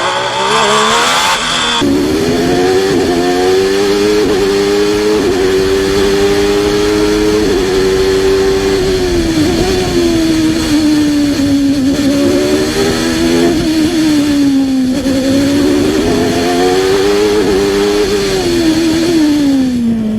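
Onboard sound of a 1993 Formula One car's naturally aspirated racing engine at high revs. The engine note climbs and drops in steps through gear changes and braking for corners. The pitch changes abruptly about two seconds in.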